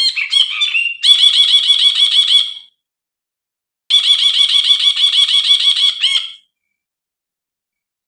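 Brinji, a bulbul, calling: an opening run of rising notes, then a fast string of repeated pitched notes, about eight a second. A pause of just over a second follows, then a second bout of the same rapid notes for about two and a half seconds, after which the calls stop.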